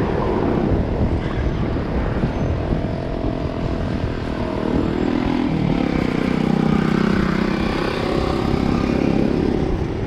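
Street traffic: a steady rumble of road noise, with a motor vehicle's engine drone swelling and passing close about halfway through.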